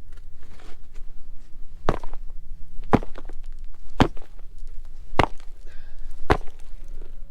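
Five sharp knocks, evenly spaced about a second apart, over a low steady rumble.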